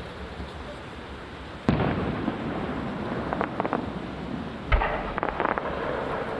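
Aerial fireworks shells bursting: two loud booms about three seconds apart, each followed by a quick run of sharp crackling pops.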